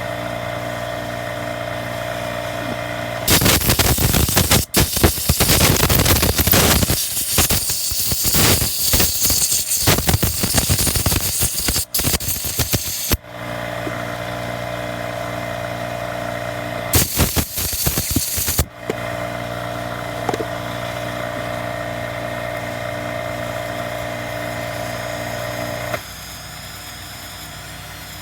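Loud blasts of compressed air hissing through a small chainsaw carburetor, one long burst of about ten seconds with a few short breaks and a shorter one later. Under them a steady motor hum runs, and it cuts off near the end.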